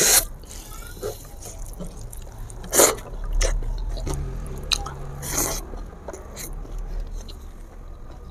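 A person chewing spicy chicken feet close to a clip-on microphone, with wet smacking and clicking mouth sounds at irregular intervals and two louder breathy rushes about three and five seconds in.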